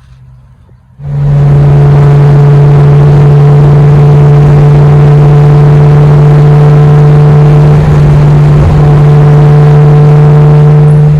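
Nissan 350Z's V6 engine and exhaust droning loudly at a steady engine speed while driving. It starts abruptly about a second in, holds one pitch throughout, and cuts off at the very end.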